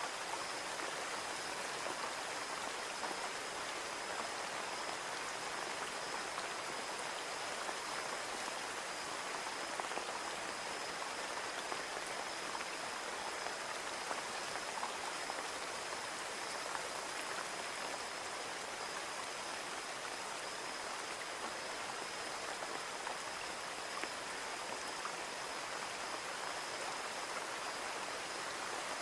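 Steady rain falling on a window, an even hiss with scattered small drop ticks.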